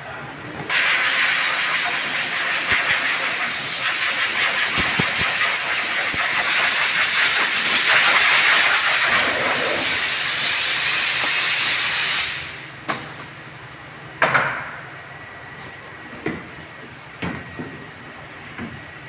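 Loud, steady hiss of compressed air blowing from an air line. It starts just under a second in and cuts off about twelve seconds in. A few short knocks and clicks follow.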